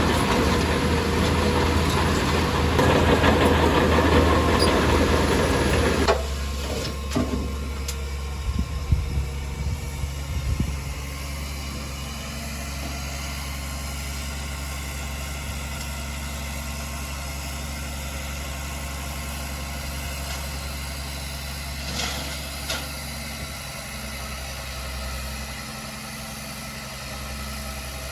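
Heavy diesel engine of earthmoving machinery working hard for about six seconds, then dropping suddenly to a steady idle, with a few knocks and clanks over it.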